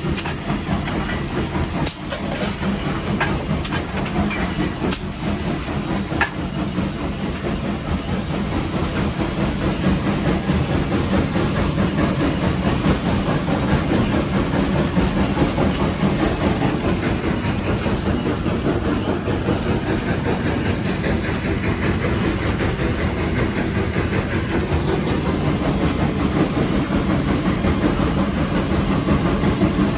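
Nevada Northern No. 81, a Baldwin 2-8-0 steam locomotive, working up a grade, heard from inside its cab: a steady hiss of steam over the heavy noise of the engine running. There are a few sharp clicks in the first several seconds, and the sound grows louder about eight seconds in.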